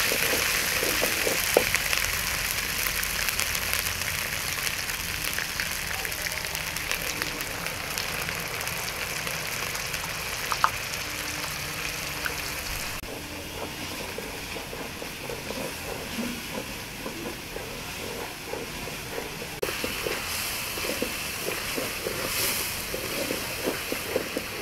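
Onion paste frying in oil in an aluminium kadai, a steady sizzle, while a wooden spoon stirs and scrapes against the pan. The sizzle is quieter in the second half, where the spoon's scraping strokes come through more, with a few sharp clicks of the spoon on the metal.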